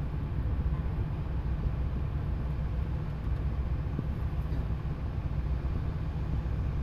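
Steady low engine rumble aboard a tugboat, running evenly without change.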